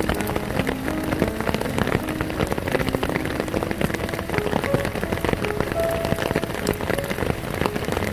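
Heavy rain pouring down, a dense, steady patter of drops with scattered short pitched plinks among them.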